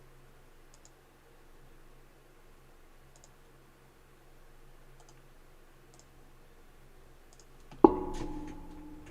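A few faint, sharp clicks spaced a second or two apart over a low steady hum, then one loud knock near the end that rings on briefly before fading.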